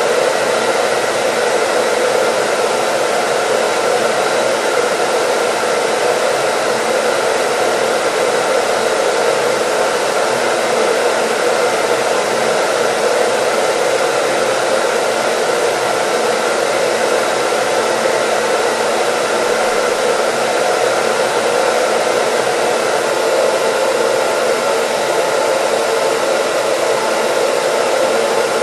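Hair dryer running steadily: an even, unbroken rush of air with faint steady high tones from the motor.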